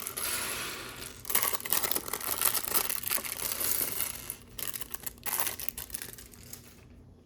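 Thin plastic Lego parts bag crinkling and rustling as it is handled, in several stretches with brief pauses, falling quiet near the end.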